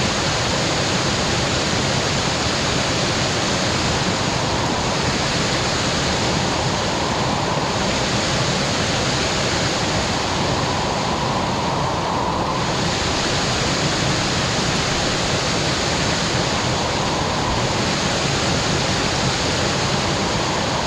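Waterfall sliding down a smooth rock chute, the water rushing in an unbroken, steady roar of white noise.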